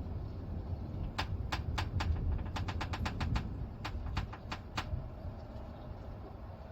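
Low rumble of a thunderstorm, with a run of sharp, irregular ticks over it for a few seconds from about a second in; the rumble slowly dies away near the end.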